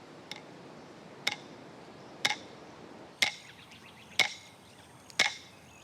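Clapsticks struck together in a steady beat about once a second, each strike a sharp wooden click, growing louder: the lead-in to an Aboriginal welcome song.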